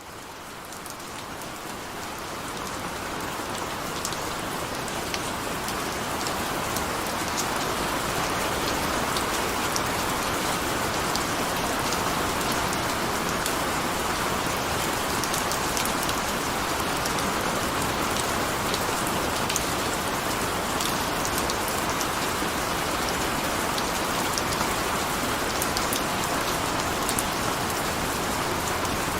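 Steady rain falling, with many small drops ticking. It fades in over the first several seconds, then holds even.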